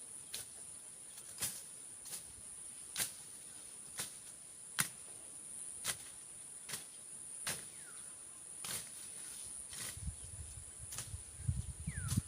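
Machete strokes slashing through undergrowth, about one sharp swish-and-cut a second, over a steady high drone of insects. From about ten seconds in, low rustling of trampled or dragged vegetation joins the strokes.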